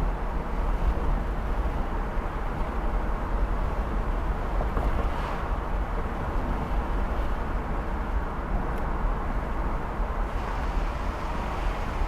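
Wind buffeting and road noise inside a car driving at about 40 mph with all four windows down in gusty wind, as picked up by a dashcam's built-in microphone: a steady, heavy low rumble with a rushing hiss over it.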